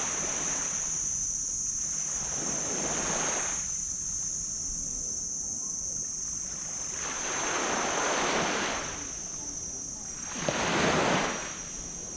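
Small waves breaking and washing up on a black sand beach, four surges a few seconds apart, the last the loudest, about eleven seconds in. A steady high-pitched hiss runs underneath.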